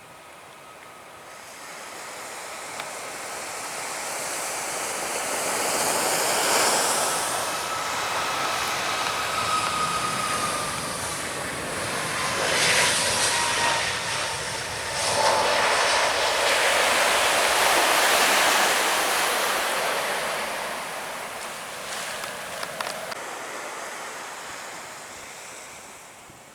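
Jet airliner passing low overhead: the engine noise swells over several seconds, stays loud for about fifteen seconds, then fades away, with a thin whine that falls in pitch as the aircraft goes by. Surf hisses steadily underneath.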